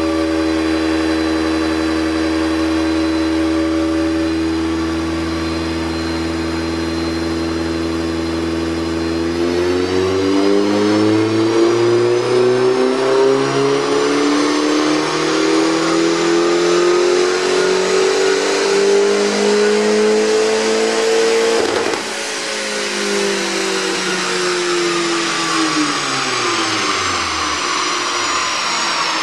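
Hyundai Genesis Coupe 2.0T's turbocharged four-cylinder engine making a wide-open-throttle chassis-dyno pull on a near-stock Haltech base map. It holds a steady speed for about nine seconds, then the pitch rises for about twelve seconds, the throttle shuts off sharply, and the pitch falls as the engine and rollers slow down.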